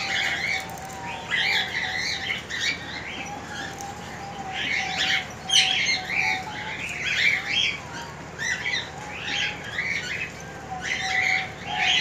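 Many cage birds chirping and squawking: rapid, overlapping short high calls, over a faint steady lower hum.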